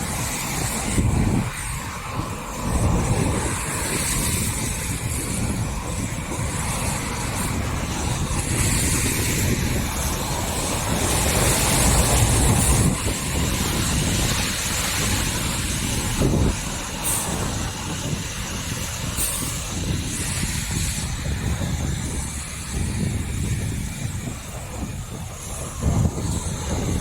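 Rain with road vehicles passing on wet pavement: a steady hiss over an uneven low rumble.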